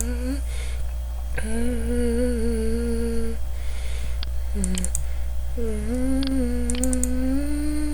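A person humming long held notes in a few phrases, the last one stepping slightly higher in pitch. Under it runs a steady low electrical hum, with a few faint clicks.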